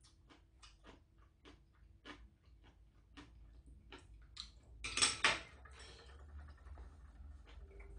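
Close-up eating sounds: small wet clicks of chewing and mouth noises. About five seconds in, two sharp clacks of metal chopsticks being set down, ringing briefly.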